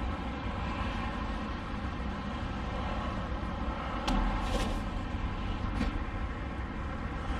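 Semi truck's diesel engine idling steadily, with a short sharp knock about four seconds in.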